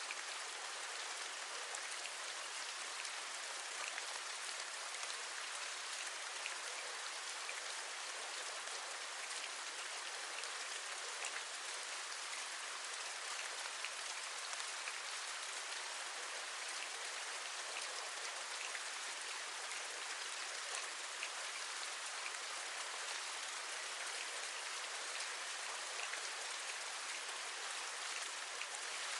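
Steady rain: an even hiss with many small taps of individual drops scattered through it.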